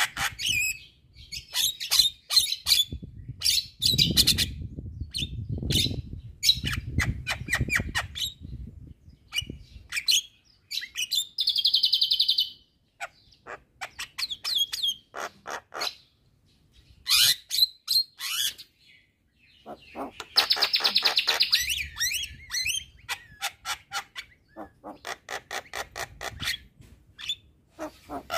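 Javan myna singing vigorously: fast runs of sharp, clicking chatter broken by harsh, buzzy notes, two of them drawn out for a second or more.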